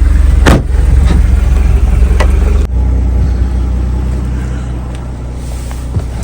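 GMC Envoy's Vortec 4200 inline-six idling, a steady low rumble, with a thump about half a second in.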